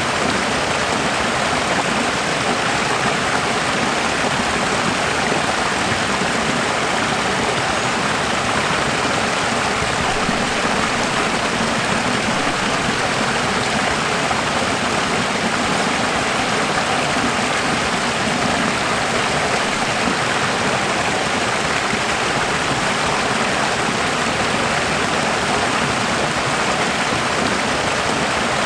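Running water, a steady unbroken rush like a flowing stream.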